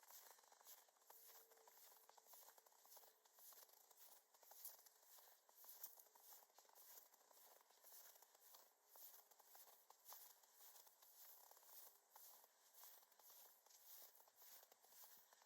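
Faint footsteps crunching through snow at a steady walking pace.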